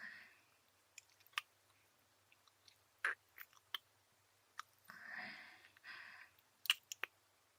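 Wet mouth clicks and lip smacks close to a binaural microphone, scattered a few at a time, with two short breathy whispers a little past the middle.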